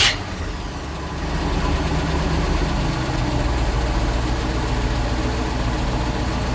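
Second of a pair of 454 big-block V8 inboard marine engines catching as it is started, then settling into a steady idle alongside the engine already running. The combined engine sound steps up about a second in and holds steady.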